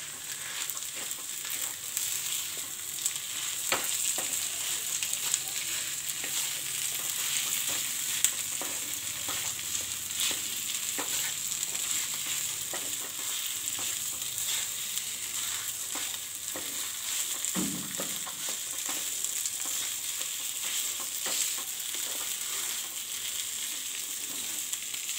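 Potato, onion and sweet corn mixture sizzling in a hot pan while a wooden spatula stirs and mashes it, with steady hissing and repeated scrapes and light knocks of the spatula on the pan.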